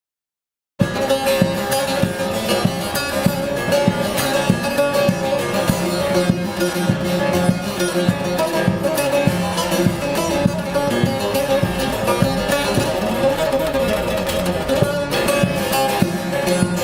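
Bağlama with a carved mulberry bowl played solo, starting abruptly about a second in with fast, dense picking and strumming.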